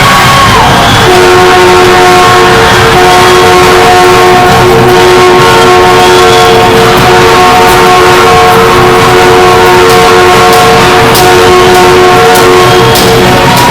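A horn sounds one long multi-note chord for about twelve seconds, with a few brief dips, over a loud, noisy crowd.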